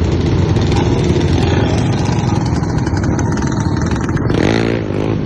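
A crowd of motorcycles and ATVs running and revving together in a dense, loud engine din. Near the end, one engine's pitch drops sharply.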